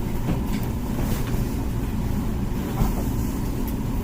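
Comfee dishwasher running its wash cycle: the wash pump's steady low running sound, with water churning inside the tub.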